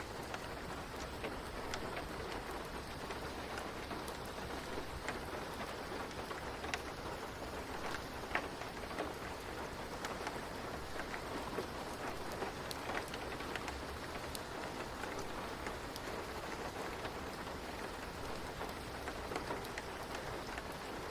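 Steady rain falling, an even hiss with scattered sharp drips and taps of drops hitting a surface.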